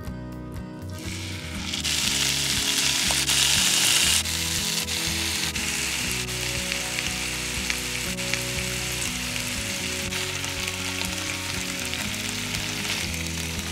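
Bacon-wrapped chicken rolls sizzling as they fry in a hot pan. The sizzle starts about a second in, is loudest for the next few seconds, then settles to a steady hiss.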